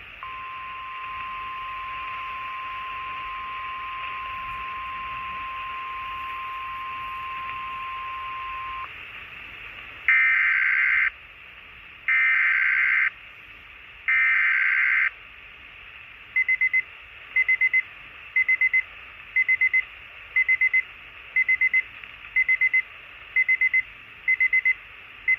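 Weather radio alert signals heard through a scanner's speaker: a steady 1050 Hz warning tone held for about nine seconds, then three one-second bursts of screeching digital data, the SAME coded header of a weather alert. After that, short high beeps repeat about once a second, the scanner's alert beep.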